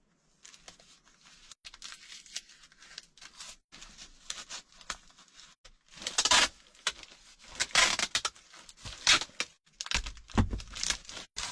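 Cardboard box being cut and torn by hand: a run of irregular ripping and crinkling strokes, faint at first and louder and more frequent from about six seconds in.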